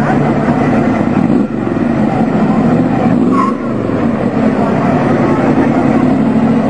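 Car engine running hard, its pitch dipping and climbing again twice, about one and a half and three and a half seconds in.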